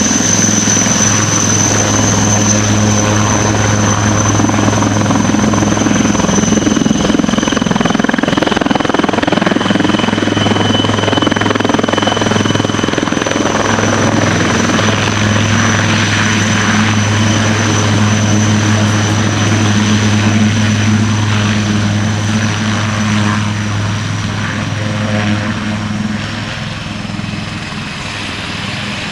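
Helicopter running steadily: a constant low rotor drone with a thin, high turbine whine above it, easing a little in loudness near the end.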